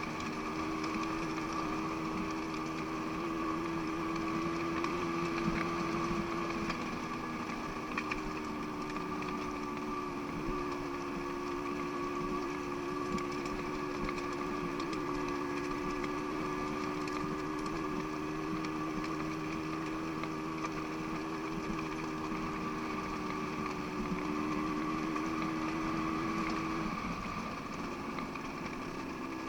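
Motorcycle engine running steadily at idle, its pitch shifting slightly about seven seconds in and again near the end.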